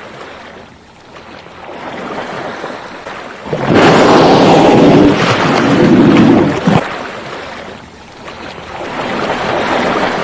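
Rushing wind-and-sea noise on the microphone, swelling into a loud rush for about three seconds starting near four seconds in, then easing and rising again near the end.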